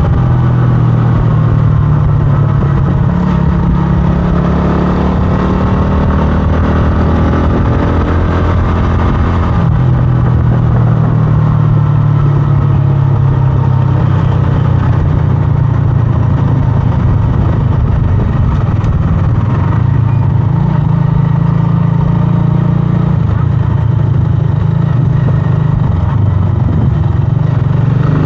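125cc scrambler motorcycle engine running continuously while riding, its pitch shifting up and down a little with throttle changes.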